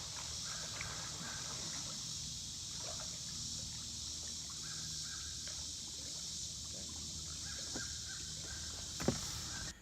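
Riverside outdoor ambience: a steady high-pitched hiss over a low rumble, with several faint, short distant bird calls scattered through it and a single knock near the end.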